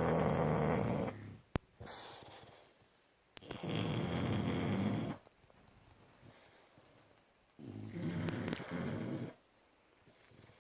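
Bulldogs snoring: three long snores about four seconds apart, each lasting one and a half to two seconds, with a softer breath between the first two.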